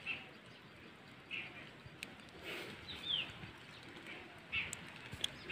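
Faint, scattered short bird chirps, one a quick falling whistle about three seconds in, with a few light clicks.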